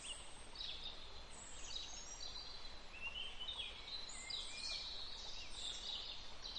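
Several small birds chirping and trilling, many short overlapping calls, faint against a quiet background.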